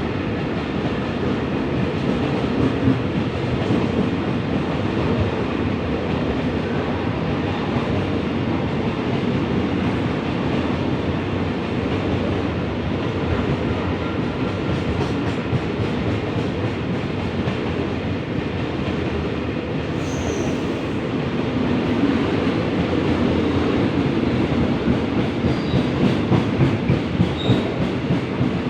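Freight train rolling past with a steady rumble of wheels on rails, turning into a regular clickety-clack of wheels over rail joints near the end.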